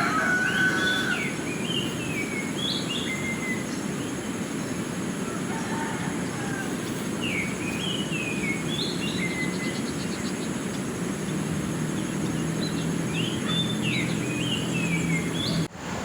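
Steady rush of a flowing river with a songbird singing a short phrase of falling whistled notes three times. The end of a rooster's crow is heard at the start, and the sound cuts off abruptly near the end.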